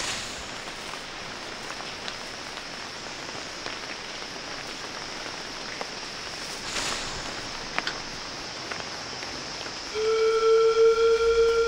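Rainforest rain ambience: an even hiss of rain with scattered faint drips and a thin high steady whine. About ten seconds in, a much louder steady held tone with overtones and a low hum beneath it starts and holds.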